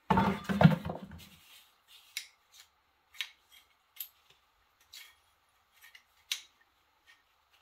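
A loud metallic clunk and rattle as a seized part in a small Honda engine comes loose. It is followed by a series of light metal clicks and clinks, about one every half second to second, as the parts are handled.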